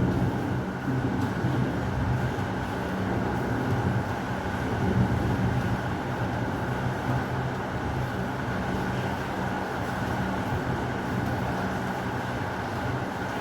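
Heavy rain falling steadily, with low rolling thunder rumbling underneath, swelling briefly about five seconds in.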